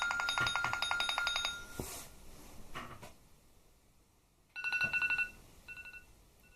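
iOS 7 ringtone previews playing through an iPhone 4S speaker. A rapidly pulsing electronic tone stops just under two seconds in, two faint clicks follow, and a different ringtone's bright tone starts about four and a half seconds in, repeating fainter like an echo.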